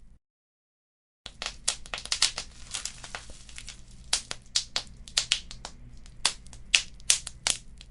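Fireplace fire crackling, with many sharp irregular pops and snaps over a faint hiss. The sound cuts out completely for about a second near the start, then resumes.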